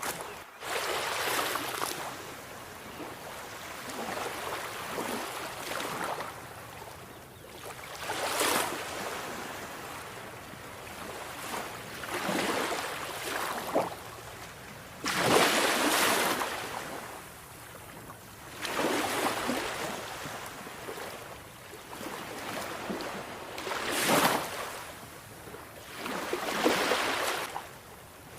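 Sea waves washing onto a shore, surging and receding in a steady rhythm about every three to four seconds.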